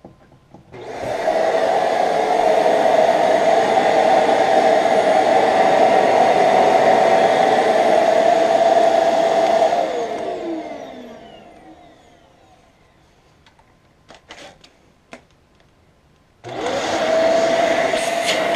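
Samsung SU12F40SB upright vacuum cleaner, freshly cleaned and reassembled, switched on about a second in and running with a steady whine, then switched off, its motor winding down with a falling pitch. A few clicks follow, and the vacuum starts up again near the end.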